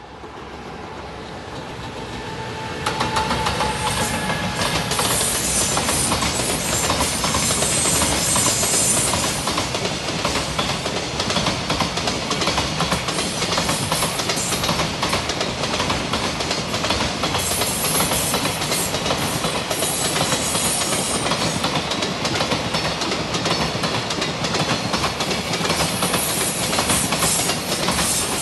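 A JR Freight container train, hauled by an electric locomotive, passes close by. Its wheels clatter over the rail joints in quick clicks, building over the first three seconds as it comes up and then running steady as the container wagons roll by.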